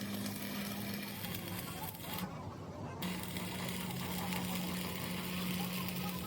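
A machine motor running with a steady hum under constant hiss, the hiss dropping out briefly a little after two seconds in.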